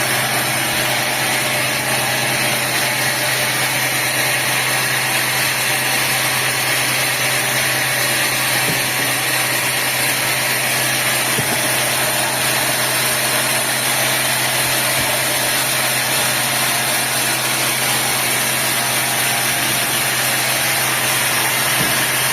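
Sawmill machinery running steadily: an even mechanical noise with a constant low hum and a high whine, with no change in load.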